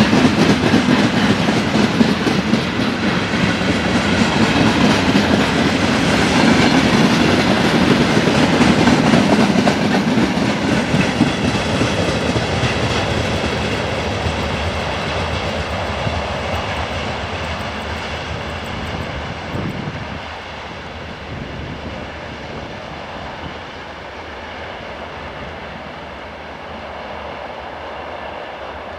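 Train cars rolling past behind a GE C36-7i diesel locomotive, wheels clattering over the rail joints. The noise is loud at first and fades away over the second half as the train moves off.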